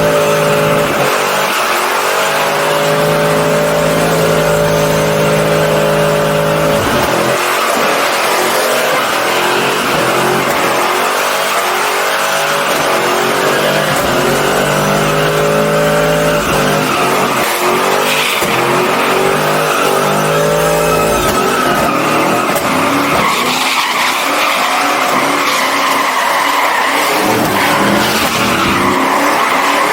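A truck engine held at high revs while its tires spin and squeal in a burnout. After about seven seconds the revs start rising and falling over and over, under a constant tire screech.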